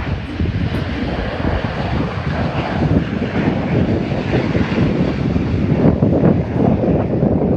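Jet airliner engines running steadily, under heavy gusting wind buffeting the microphone.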